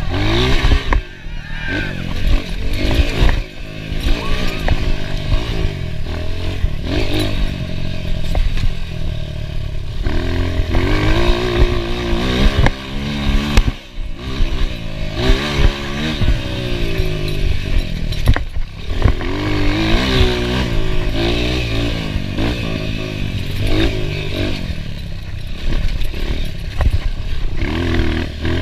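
Enduro dirt bike engine being ridden hard, its pitch rising and falling again and again as the throttle opens and closes, with a few brief drops where the throttle is let off.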